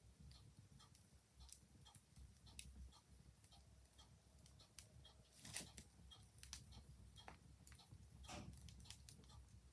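Wood fire crackling with a clock ticking, faint: a run of small sharp pops and ticks over a low rumble, with two louder pops about halfway through and near the end.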